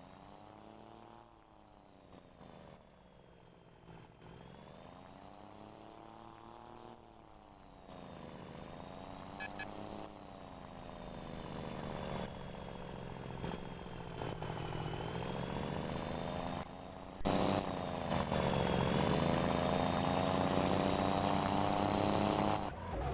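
Scania Super 540 truck engine running through a straight-through exhaust, its pitch rising and falling again and again as it is revved, and getting louder towards the end.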